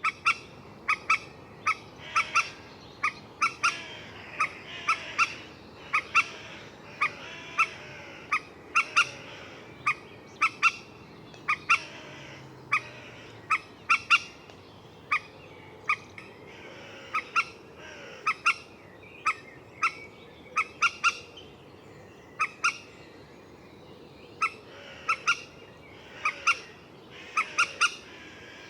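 Common moorhen giving short, sharp calls, singly or in quick twos and threes, repeating about once a second. Fainter calls of other birds run underneath.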